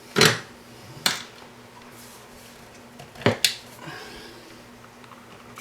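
A few sharp clicks and snaps from small hand tools and wires being handled while wiring: one near the start, another about a second in, and a quick pair a little past three seconds.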